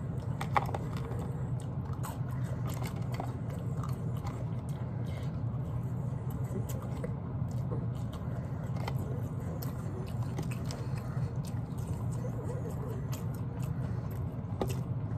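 Close-up sounds of a person chewing and biting barbecue rib meat eaten by hand: wet mouth clicks and smacks scattered throughout, over a steady low hum.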